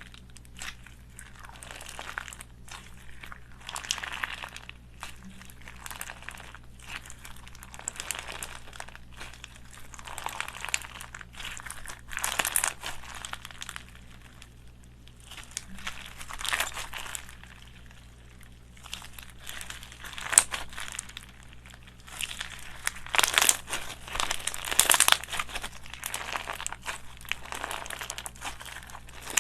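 Slime being squished and kneaded by hand, giving repeated crinkling, crackling squishes with small pops, the loudest near the end.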